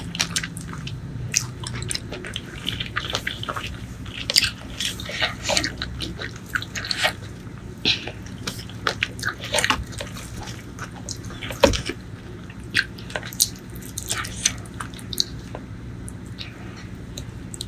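Close-miked eating sounds: wet chewing and mouth smacks while eating rice, spicy eggplant curry and fried mackerel by hand, with many short, sharp wet clicks at an irregular pace.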